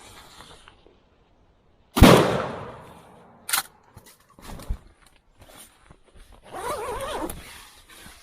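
A single shotgun shot about two seconds in, with a trailing echo, followed by a few smaller sharp knocks and a rustling, wavering noise near the end.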